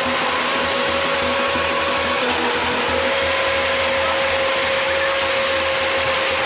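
A machine running steadily with a constant high whine over a noisy rush; the whine dips slightly in pitch about two seconds in.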